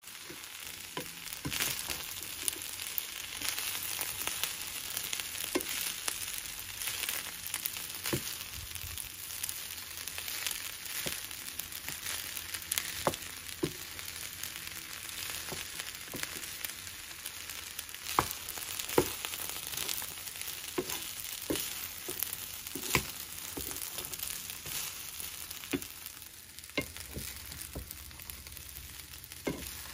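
Fried rice with sausage and snow peas sizzling in a frying pan, stirred with a wooden spoon that scrapes and knocks against the pan at irregular moments.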